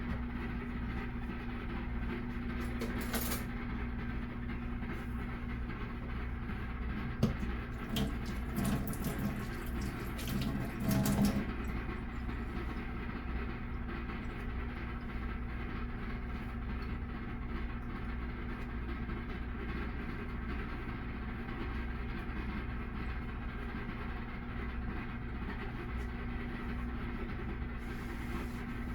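Microwave oven running: a steady hum, with a few brief louder noises about 8 to 11 seconds in.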